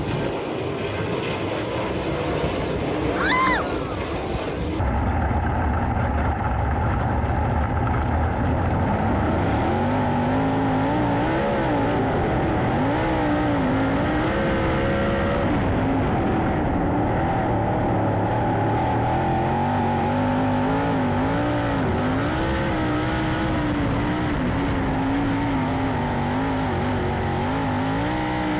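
A field of 410 sprint cars racing on a dirt oval, several V8 engines at once, their pitch rising and falling over and over as they power down the straights and lift for the turns. A brief high whistle-like tone rises and falls about three seconds in.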